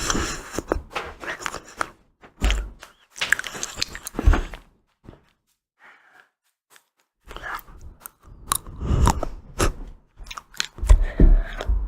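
Close-miked chewing and crunching of ice cream, in bursts of crackly bites with short pauses between them, the longest about two seconds midway.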